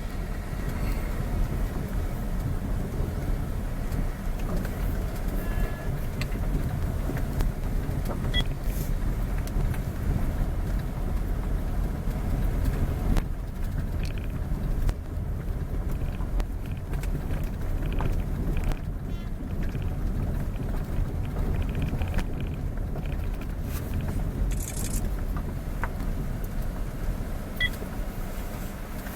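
Steady low rumble of a moving road vehicle, engine and road noise.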